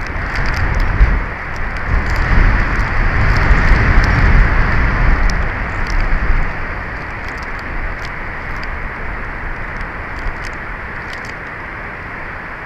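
Strong wind buffeting an outdoor nest-camera microphone. A gust rumbles loudest from about one to six seconds in, then eases to a steady rush with faint scattered ticks.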